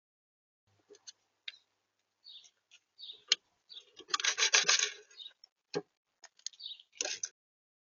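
Small bird feeding at a camera bird feeder: scattered pecking taps and scratching on the feeder and seed. A denser scraping rustle comes about halfway through, with a few sharp clicks near the end.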